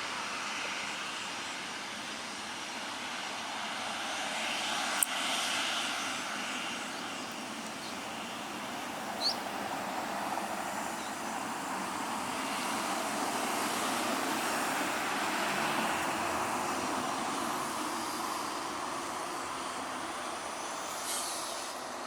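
Jet engines of a Boeing 737-8AR airliner running at a distance: a steady rushing that swells and eases gently. A sharp click comes about five seconds in, and a short rising chirp about four seconds later.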